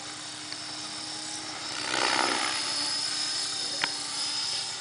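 Align T-Rex 500 electric RC helicopter in flight: a steady high whine from the motor and gears over the rotor noise. The rotor noise swells louder for about half a second about two seconds in, and there is a single short click near the end.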